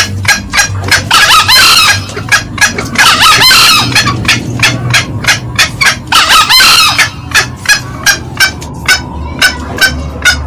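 Green junglefowl calling: a run of short, clipped clucks, about four a second, with three longer, louder, harsh crowing calls over it in the first seven seconds.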